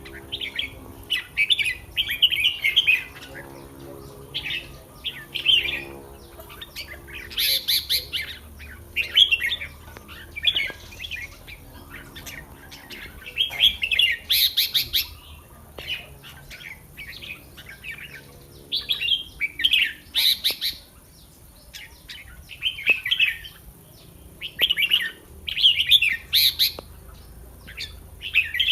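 Red-whiskered bulbul singing short, bright phrases again and again, a new phrase every second or two.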